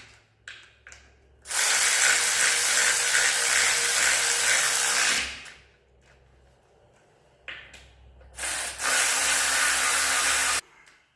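Hand-held power tool run in two long bursts, the first about four seconds and the second about two, with a few short blips before and between them.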